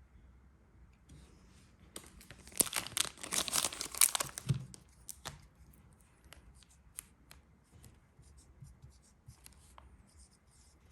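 Crinkling, tearing-like rustle of something being handled, loudest for about two and a half seconds near the start, followed by scattered light clicks and taps.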